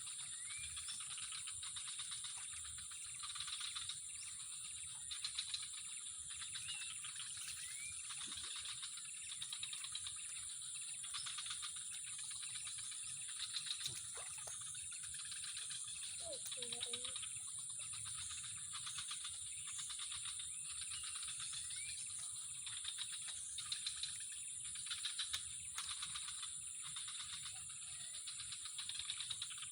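Outdoor nature ambience: a steady high-pitched insect drone, pulsing buzzy calls repeating every second or two, and a few short rising bird chirps.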